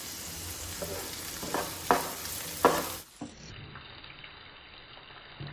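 Chopped tomatoes and green chillies sizzling in oil in a frying pan as they cook down, stirred with a wooden spoon that knocks sharply against the pan a few times. About three seconds in the sizzle drops quieter.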